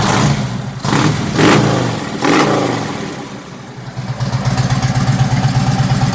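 Harley-Davidson Ultra Classic V-twin with a Cobra exhaust and Stage 1 setup, revved in three quick throttle blips in the first couple of seconds, each falling back in pitch, then settling into a loping idle.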